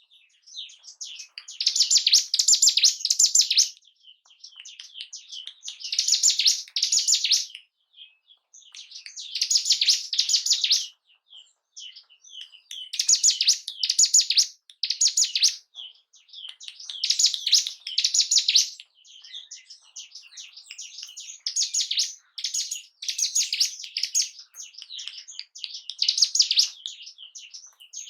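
Ciblek gunung singing: loud, high, chattering phrases of one to two seconds, repeated about every four seconds, with softer chips between them.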